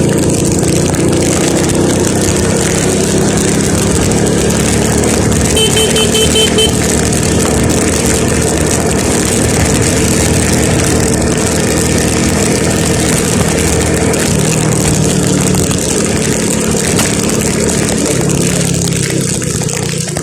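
Vehicle engine running steadily on the move, with road noise, its pitch shifting slightly now and then. About six seconds in comes a quick run of short electronic beeps.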